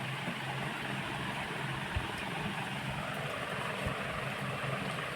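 Steady low hum and background room noise of a dining place during a meal, with two faint clicks about two and four seconds in.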